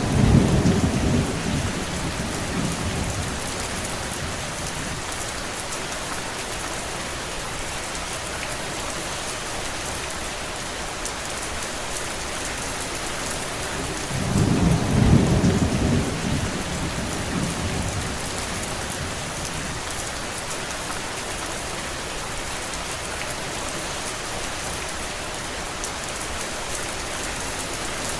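Steady rain falling, an even hiss. A low rumble swells for about three seconds at the start and again about halfway through.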